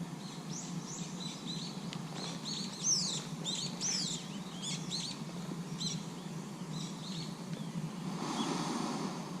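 Small songbird chirping and twittering in a quick series of short high calls and falling notes, fading out about three-quarters of the way through.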